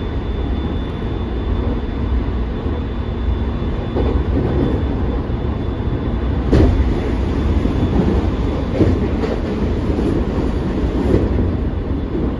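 Running noise inside a JR East E217 series electric commuter car at speed: a steady rumble of wheels on rail, with sharp clicks over rail joints now and then, the loudest about six and a half seconds in.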